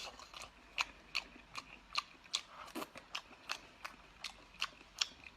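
A person chewing food close to the microphone, a short mouth click or smack about three times a second in a steady rhythm.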